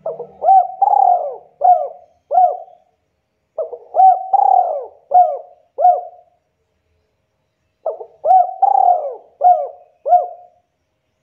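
Spotted dove (tekukur) cooing: three phrases of about five coos each, the second coo in each phrase longer and rolling, with a short pause between phrases.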